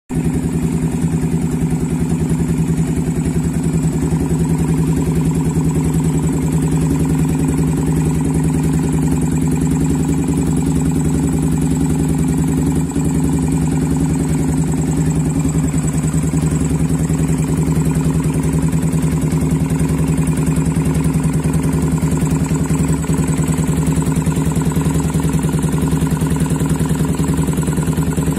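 Single-cylinder 150 cc motorcycle engine idling steadily through an aftermarket SRM racing exhaust (knalpot racing), a loud, even idle with no revving.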